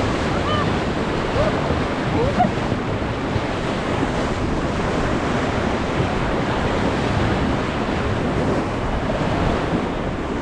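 Steady rush of whitewater through a river rapid, with wind buffeting the microphone.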